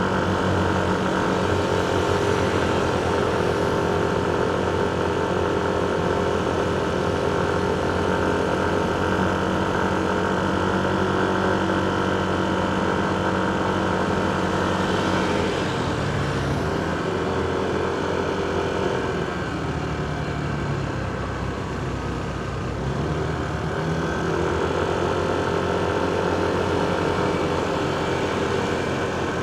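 Motorcycle and surrounding traffic engines in slow, congested traffic: a steady engine hum with several tones. About halfway through the pitch shifts as the engine changes speed, then a steady hum returns.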